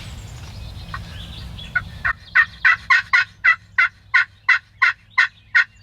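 Wild turkey yelping: a steady series of about a dozen sharp yelps, about three a second, starting about two seconds in.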